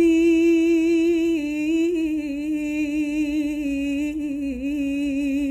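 A woman singing one long held note unaccompanied, with a light waver and a slow drift downward in pitch.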